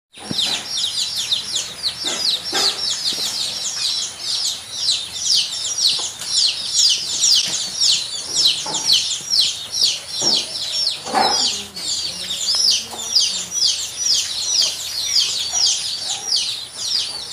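Birds chirping continuously: short, high-pitched chirps that fall in pitch, several a second.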